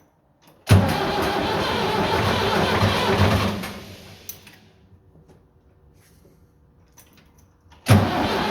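Diesel tractor engine running, just restarted after its empty fuel tank was refilled. About three and a half seconds in it dies away, then it is running again suddenly near the end.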